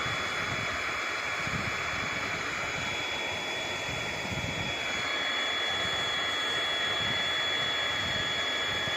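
Hot-air plastic welding gun running steadily: a blower's even rushing hiss with a thin high whine on top, a little louder from about halfway through.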